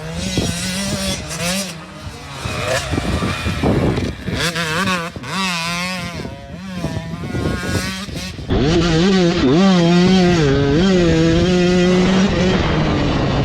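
Dirt bike engines revving up and down as they ride a motocross track, the pitch rising and falling with each throttle change; one bike gets clearly louder about two-thirds of the way through as it runs close by.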